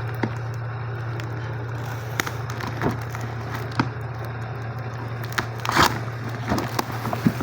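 Scattered clicks and crackling rustles of packaging being handled during an unboxing, with a louder rustle about six seconds in, over a steady low hum.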